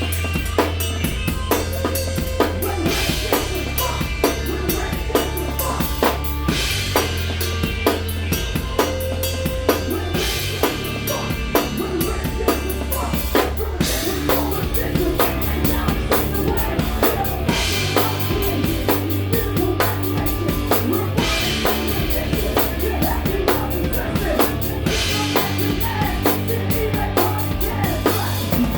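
Live rock band playing an instrumental passage with no vocals: heavy drum kit and bass under distorted guitar, with a cymbal crash about every three and a half seconds.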